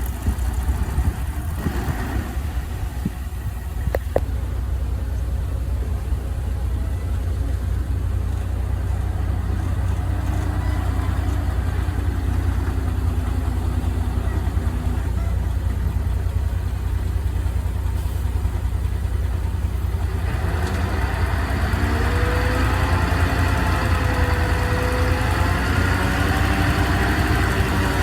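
Heavy earthmoving machine's engine running steadily with a deep rumble; about two-thirds of the way through, it grows louder and its pitch rises and falls as it works under load.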